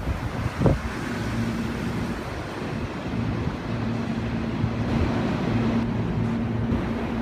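Storm wind buffeting the microphone in gusts. Under it runs a steady low hum from trains or rail equipment at a railway depot.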